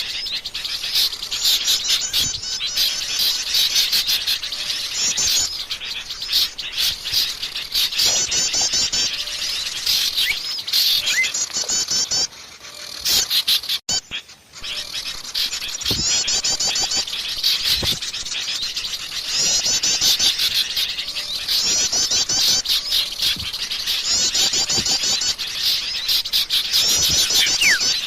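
A dense mixed chorus of small songbirds chattering and chirping in rapid, high repeated notes, the agitated, noisy calling used as a bird-lure recording. The sound briefly drops out about halfway through, then resumes just as busy.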